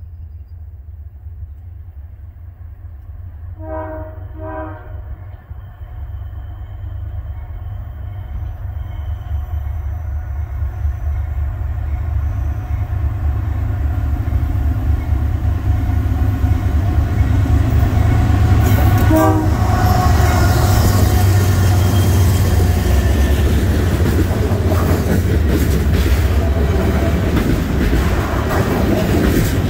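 Norfolk Southern diesel freight train approaching and passing: the lead locomotive's engine rumble grows steadily louder, its horn gives two short blasts about four seconds in and one more short blast at about nineteen seconds. Near the end the loaded trash cars roll past with the rattle of steel wheels on the rails.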